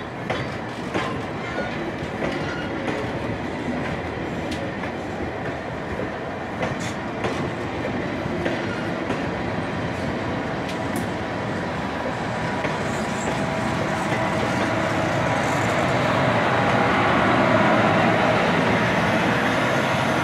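Stainless-steel passenger train cars rolling past, wheels clicking over the rail joints with a steady rumble. The noise grows louder near the end as the last cars pass close by.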